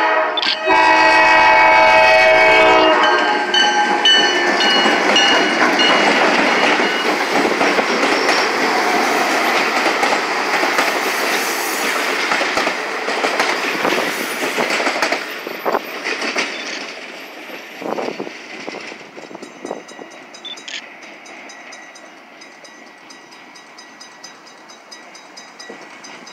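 A diesel locomotive's air horn sounds for the grade crossing and ends about three seconds in. A passenger train then passes close by with its wheels clattering over the rails. The sound drops away over the last several seconds as the train moves off.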